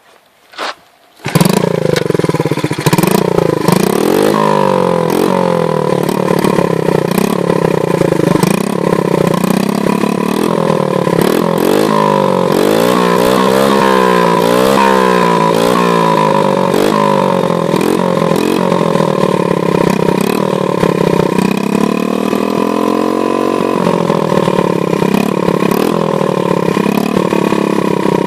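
Honda Monkey's small single-cylinder four-stroke engine starting about a second in after a couple of clicks, then running steadily. Midway it is revved up and down several times in quick succession, with another slower rise and fall later.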